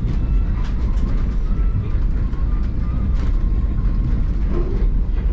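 Steady low rumble of a moving vehicle heard from inside it, running evenly throughout.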